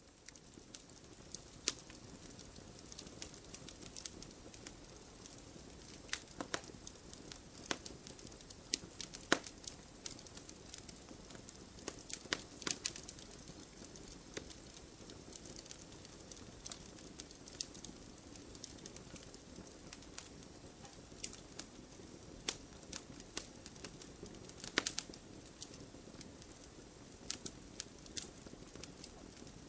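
Wood bonfire burning, crackling with irregular sharp pops and snaps over a steady soft hiss. A few louder snaps come near the middle and again about five sixths of the way through.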